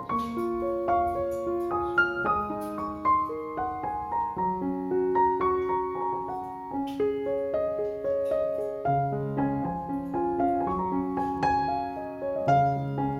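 Background piano music, a gentle melody of sustained notes over chords.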